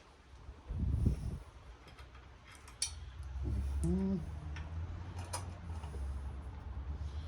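Sharp metal clicks and clinks of tools and parts being handled while a radial arm saw is taken apart, over a low rumble.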